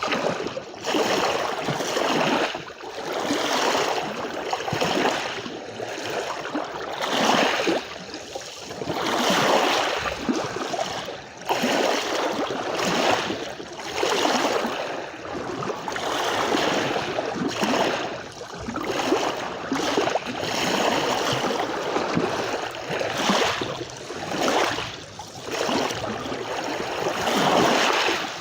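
Small sea waves lapping and washing on a shore, the water sound swelling and falling back every second or two.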